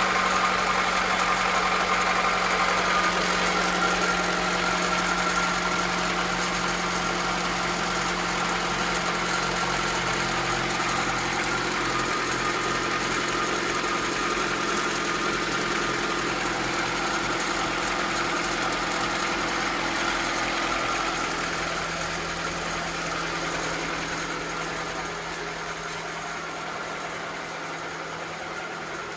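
Acura Integra's B18B1 four-cylinder engine idling steadily with a clicking from the valvetrain, which the owner takes as a sign that the valves need adjusting. It grows gradually fainter toward the end.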